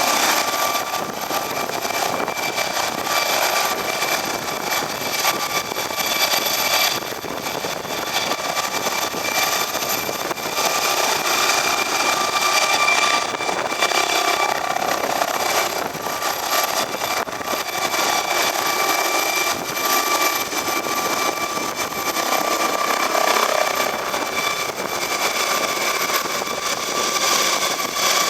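Eurocopter EC145 helicopter running close by: its twin turboshaft engines give a steady high-pitched whine over the rush of the rotors.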